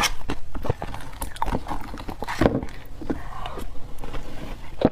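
Frozen matcha ice being bitten and crunched close to the microphone: a dense run of sharp cracks and crackles, with the loudest crunch about halfway through.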